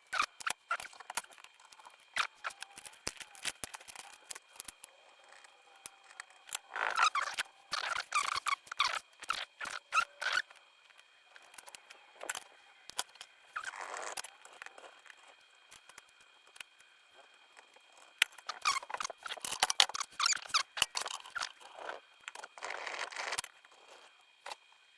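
Hand-work with small tools and wires on a battery pack: scattered clicks with bursts of scraping and squeaking, in three spells with pauses between.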